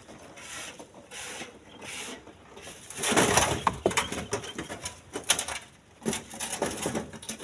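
Split stones being handled, scraping softly at first and then clattering with many sharp knocks of rock on rock from about three seconds in.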